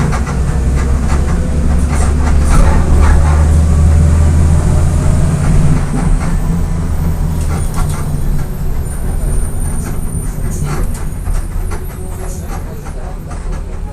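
Volkswagen Volksbus 17.230 EOD bus on the move, its diesel engine giving a steady low drone under a clatter of rattles. The drone eases off in the second half.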